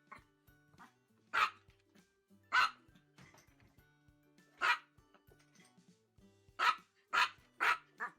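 A dog barking in single loud, sharp barks: six of them at uneven intervals, the last three in quick succession near the end. Faint steady low notes of background music run underneath.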